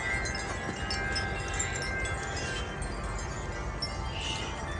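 Wind chimes ringing in the wind, several overlapping tones sounding continuously with light strikes, over a low rumble of wind.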